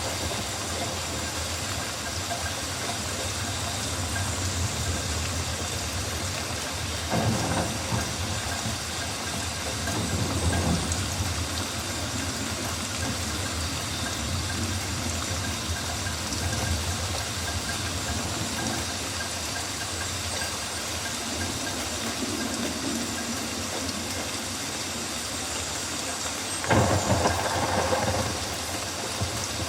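Steady rain falling on rainforest foliage: an even hiss with a low rumble underneath. There are two brief louder swells, about seven seconds in and near the end.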